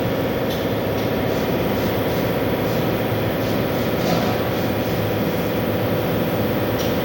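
Steady running noise in a car's engine bay: the engine and the newly fitted electric auxiliary radiator fan running together, with a constant whine.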